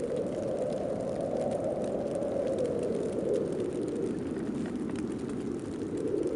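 Snowstorm wind blowing steadily, a low rushing noise that swells and eases gently over a few seconds.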